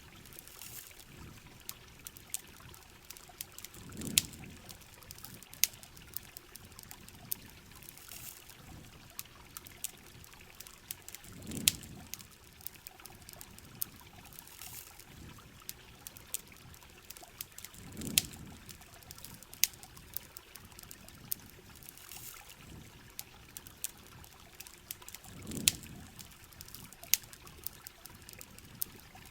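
Rain and running water under a crackling campfire: sharp pops scattered throughout over a steady hiss, with a low whoosh about every seven seconds, four times.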